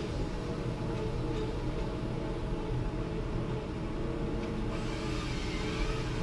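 Forestry machine's diesel engine running steadily with a held whine, and a hiss joining about five seconds in.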